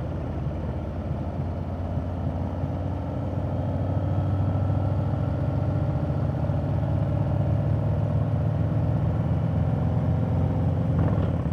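Harley-Davidson motorcycle's V-twin engine running steadily while riding, getting a little louder about four seconds in.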